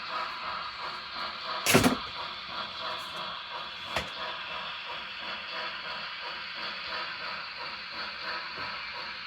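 HO-scale model train running past on the layout: a steady mechanical running noise of the locomotive's motor and gearing and the wheels on the track. A short, loud clatter comes just under two seconds in, and a lighter click at about four seconds.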